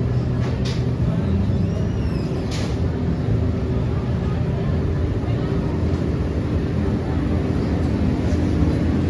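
City street traffic: a steady low rumble of vehicle engines, with people's voices nearby and a brief high squeal about two seconds in.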